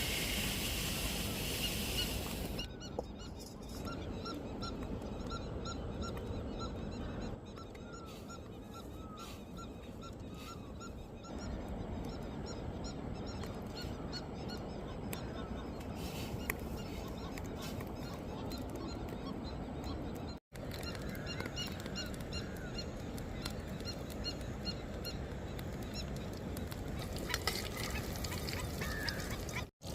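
Birds calling again and again over steady outdoor background noise, broken by several abrupt cuts.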